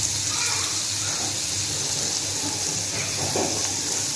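Diced potatoes frying in a little oil in a pan, a steady sizzle.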